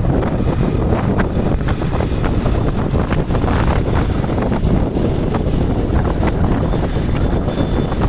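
Heavy wind rumbling and buffeting on the microphone over the steady running noise of a moving vehicle.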